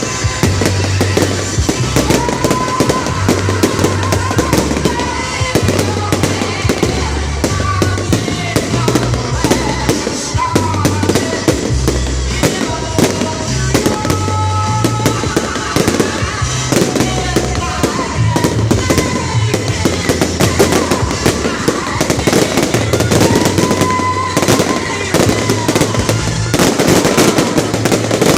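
Fireworks display: a dense run of bangs and crackling bursts, heard over loud music with a steady bass line.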